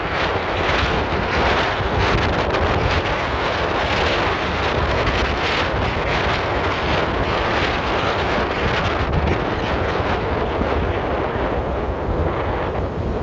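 Sea waves washing in and wind blowing hard, with wind buffeting the microphone as a steady low rumble; the surf swells and eases every few seconds.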